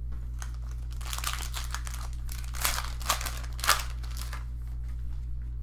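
Trading cards being handled and flipped through, with crinkling of their packaging: a run of rustles with three sharper snaps in the middle.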